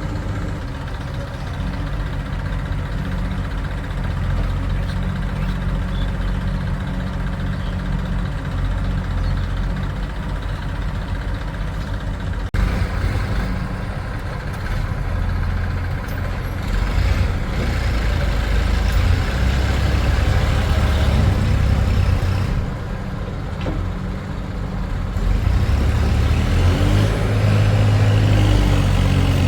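Heavy diesel engines of a backhoe loader and tractor running steadily. The engine note swells under load about halfway through and again near the end. A single sharp click comes a little before the middle.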